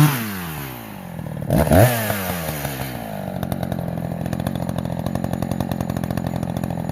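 Echo CS-590 Timber Wolf two-stroke chainsaw coming off full throttle at the end of a cut and revving down. It is blipped once about a second and a half in, then settles into a steady idle.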